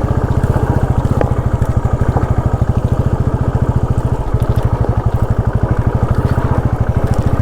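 Motorcycle engine running at steady low revs, an even fast pulse, as the bike climbs a rough dirt hill trail.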